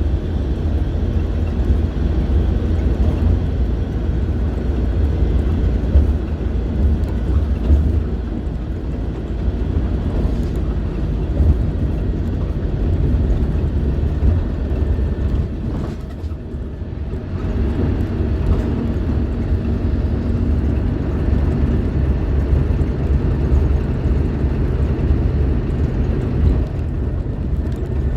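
Scania K310IB bus diesel engine running, a steady low drone that eases off briefly about sixteen seconds in and then picks up again.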